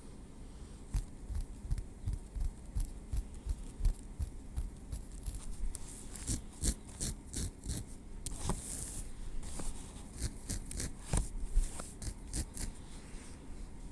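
Tweezers working through hair at the scalp: irregular small clicks and taps, several a second, with a brief rustling scrape about halfway through.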